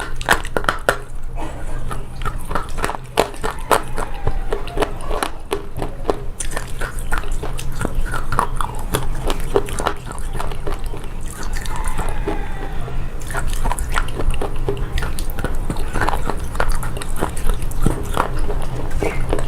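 Slate pencil being bitten and chewed: repeated crisp, irregular crunches, over a steady low hum.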